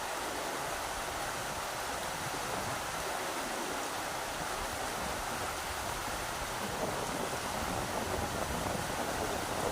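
Rushing river water: a steady, even rush of flowing water.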